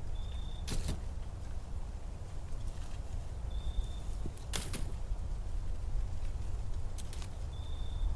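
Autumn forest ambience: a bird gives a short, steady high whistle three times, about every three and a half seconds, over a low steady rumble, with a few brief sharp crackles in between.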